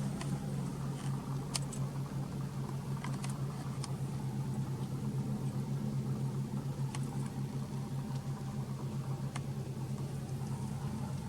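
Toyota Altezza RS200's 3S-GE inline-four idling steadily through an aftermarket exhaust manifold and 5ZIGEN muffler, with a few faint clicks.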